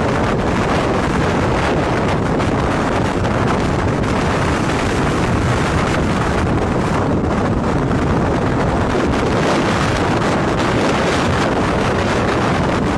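Strong wind blowing hard across the microphone: a loud, steady rushing noise that holds without let-up.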